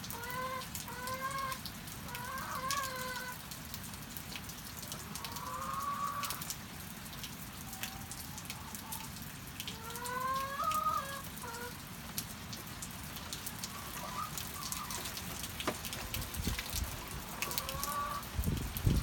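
Steady rain with scattered drips ticking, while hens call now and then in short, drawn-out, wavering notes. A few dull low thumps come near the end.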